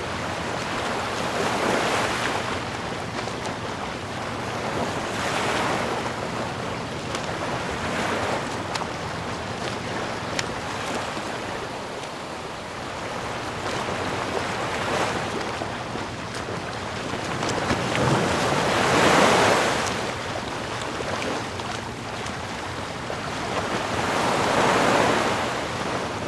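Ocean waves breaking on a shore in a steady wash, swelling with each wave every few seconds, the loudest about two-thirds of the way through.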